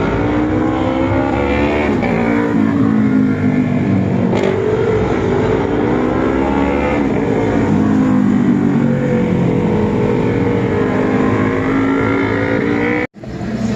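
Racing motorcycle engines on a circuit, several at once, their pitch climbing and dropping as they rev, shift and pass. The sound cuts out abruptly for an instant about 13 seconds in.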